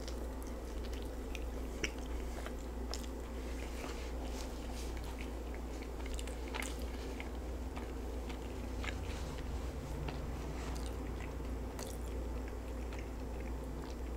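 Close-miked eating of a chicken quesadilla: a bite into the tortilla, then chewing with many small wet mouth clicks throughout, over a faint steady low hum.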